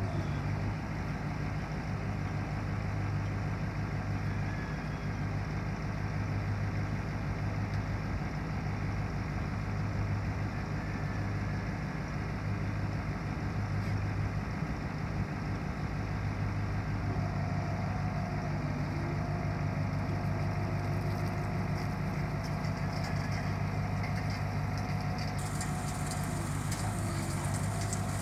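Engine of a 1990 Ford C8000 bucket truck idling steadily, with a faint higher whine joining about two-thirds of the way in.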